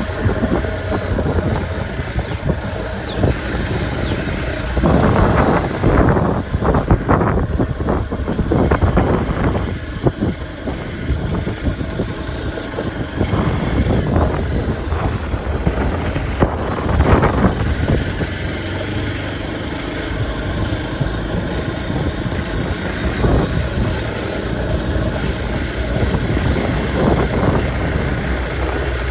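Hero XPulse 200 4V single-cylinder motorcycle engine running on the move, mixed with heavy wind buffeting on the microphone.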